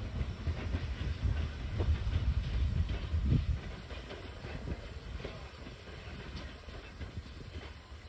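A train hauled by the steam locomotive Frisco 1630, a 1918 Baldwin 2-10-0 Russian Decapod, rolling away down the track. A low rumble with wheels clicking over the rails fades noticeably after about three and a half seconds.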